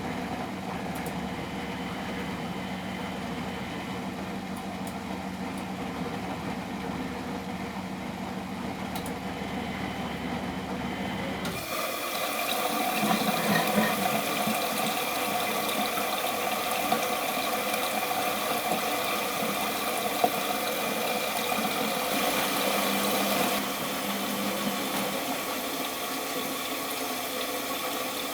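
Miele Professional WS 5426 washing machine running with a steady hum. About halfway through, a louder rush of water through the machine starts suddenly and carries on, easing slightly near the end.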